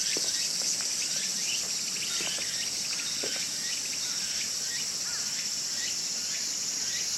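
Steady high-pitched chorus of insects, with short chirps scattered through it.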